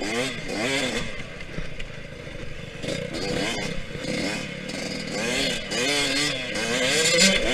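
Yamaha YZ125X two-stroke single-cylinder dirt bike engine revving up and backing off over and over as it is ridden around a motocross track, with a few sharp clicks.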